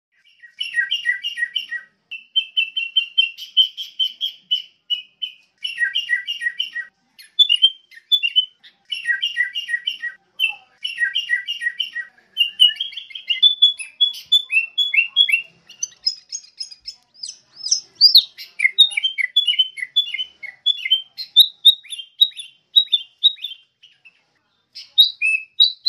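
Sooty-headed bulbul singing: short phrases of quick, bubbly notes, repeated with brief pauses. After the first half, the song turns into a more varied run of chattering notes.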